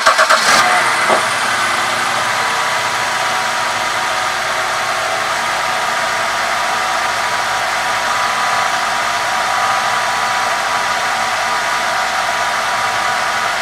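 BMW engine running steadily with a constant whine-like hum carrying faint steady tones, after a few uneven pulses in the first second. This is the unidentified noise the owner is trying to trace.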